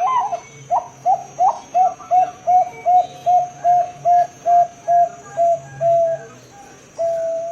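Zebra dove (perkutut) cooing a fast run of about fifteen short, evenly spaced coos, roughly three a second. The first few notes are higher and slurred, and a longer held coo comes near the end.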